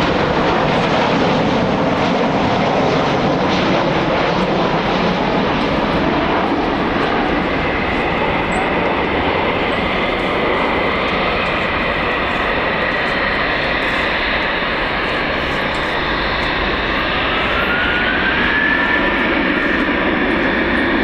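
Jet airliner's engines running loud and steady, with a whine that rises in pitch near the end.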